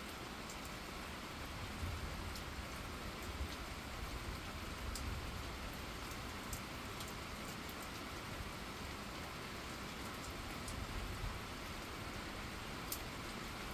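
Steady rain falling on wet pavement and grass: an even hiss with scattered sharp drip ticks, and now and then a brief low rumble.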